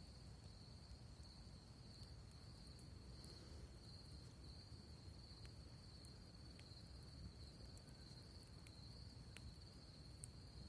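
Faint, steady trilling of crickets on one unbroken high note, with scattered small crackles and pops from a campfire.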